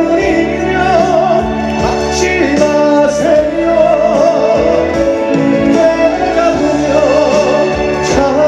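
Live band music of a slow trot ballad: a wavering lead melody with heavy vibrato over sustained chords and a steady bass, in the instrumental break between verses.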